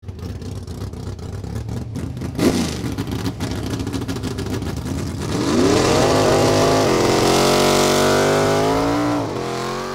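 An engine running rough and crackly, then revving up about halfway in. It holds high revs for several seconds and drops off near the end.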